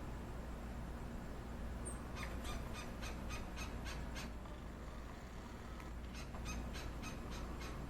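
Gila woodpecker calling: two quick runs of short, sharp repeated notes, about four or five a second, the first run about two seconds in and the second about six seconds in.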